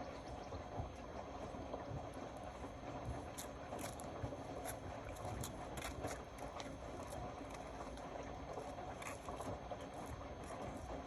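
Indesit Innex BWE 91496X washing machine running a wash, its drum turning with water sloshing and many light clicks.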